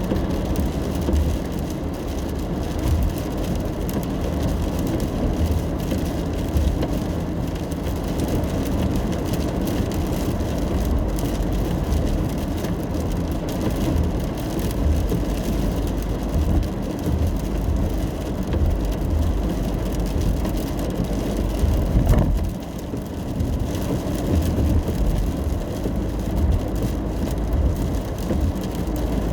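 Inside a car driving in the rain: a steady low road and tyre rumble with the hiss of rain on the car. About three quarters of the way through there is a single sharp thump, after which the rumble briefly drops before picking up again.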